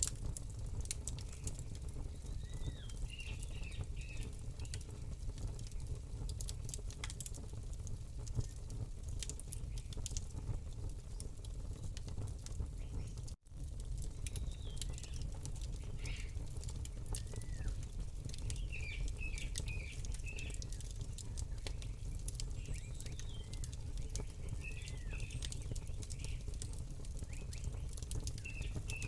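Campfire crackling with many sharp pops over a steady low rumble, while small birds chirp in short repeated phrases. The sound cuts out for an instant about halfway through.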